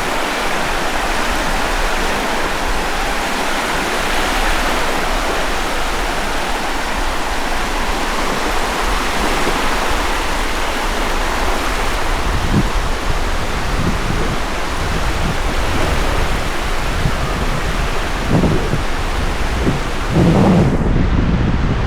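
Ocean surf washing onto the beach as a steady hiss. From about halfway through, gusts of wind buffet the microphone with low rumbles that grow stronger near the end.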